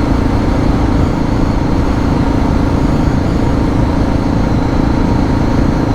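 Suzuki DR650 single-cylinder engine running at a steady cruising speed, heard from the rider's position with a constant rush of wind and road noise and no change in pitch.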